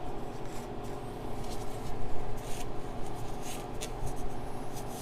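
Irregular short scraping and rubbing strokes of a hand tool worked over a metal part, over a steady low hum.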